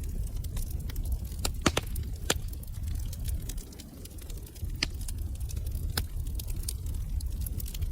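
Fireplace fire crackling, with many small sharp crackles over a low steady rumble of flames and a few louder pops scattered through.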